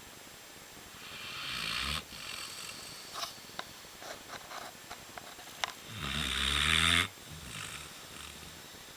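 Newfoundland dog snoring: two drawn-out snores, about a second in and about six seconds in, the second louder, each building up and cutting off sharply and followed by a softer breath. A few faint clicks come between the two snores.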